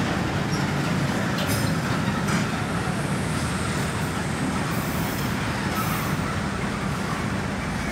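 Railway tank wagons rolling slowly during shunting, a steady low rumble with two faint knocks about a second and a half in and again a second later.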